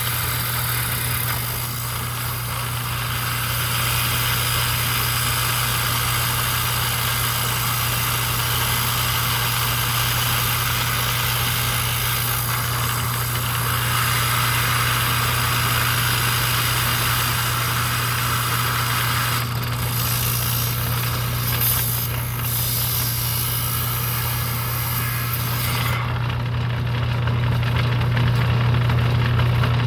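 Electric motor of a vintage lapidary trim saw running steadily with a hum, its oil-cooled diamond blade cutting through red jasper with a steady hissing grind. Near the end the high hiss falls away while the motor keeps humming.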